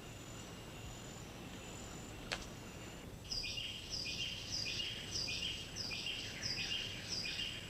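Faint rainforest ambience. About three seconds in, an animal starts a high, chirping call that repeats about twice a second, each call stepping down from a higher note to a lower one. A single faint tick comes a little before it.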